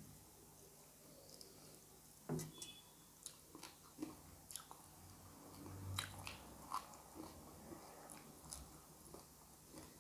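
Close-up eating sounds: quiet chewing of chicken curry and rice, with scattered sharp mouth clicks and smacks, the loudest about two seconds in and near the middle.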